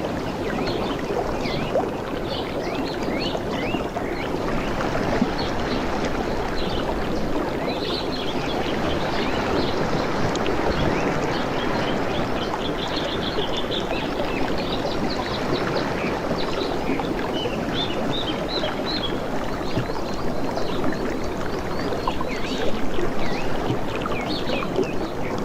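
A steady rush of water with no rise and fall of waves, and many small birds chirping over it, in short quick calls scattered throughout.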